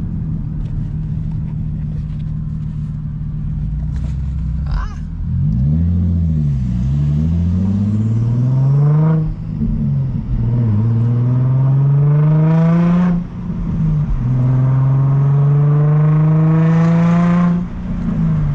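Infiniti G35's VQ35 V6 with the muffler and resonator deleted, droning steadily at first, then revving up through the gears of its 6-speed manual. The pitch climbs and drops sharply at three upshifts.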